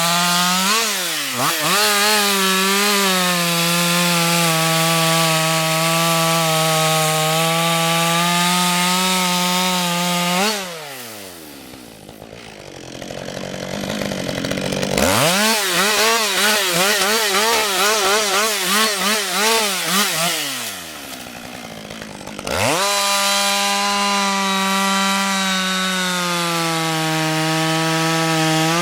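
Husqvarna two-stroke chainsaw cutting wood at full throttle. About ten seconds in, the engine note falls away to a lull, then comes back for about five seconds with its pitch wavering rapidly up and down. It drops again briefly and returns to steady high revs near the end.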